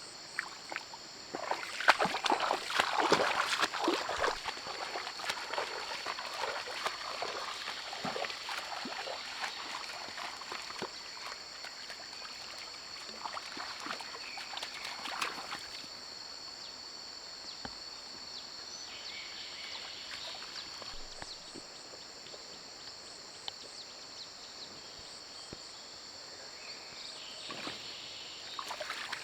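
Splashing and sloshing of movement through shallow water, heaviest a couple of seconds in and dying away about halfway through, then returning briefly near the end. Underneath is a steady high-pitched chorus of calling insects.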